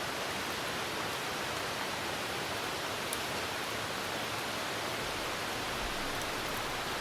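Steady rain falling at a campsite, an even hiss, with a couple of faint high ticks from the campfire.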